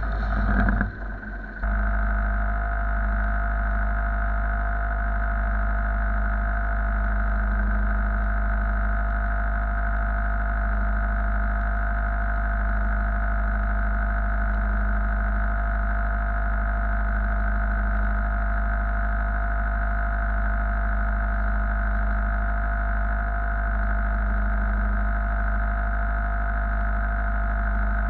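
An engine running steadily at constant speed, a level drone that sets in about a second and a half in and does not change.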